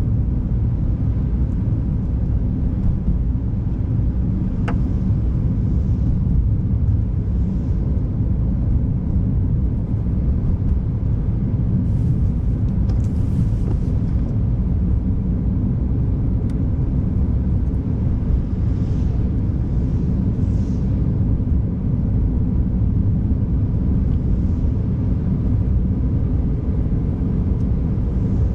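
Car driving on an icy, snow-packed road: a steady low rumble of tyres and engine. A faint click comes about five seconds in, and brief soft hisses pass around the middle.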